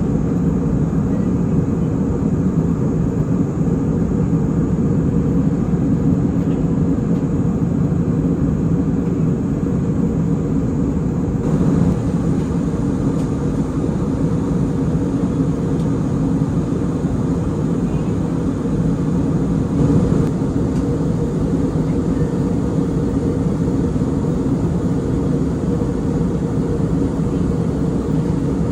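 Airliner cabin noise: a steady drone of engines and airflow.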